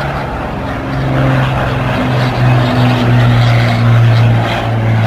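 Propeller aircraft engine running with a steady low hum over a noisy rush, getting louder about a second in.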